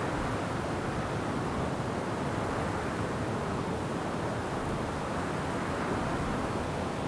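Wind blowing through forest trees: a steady rushing noise without distinct events.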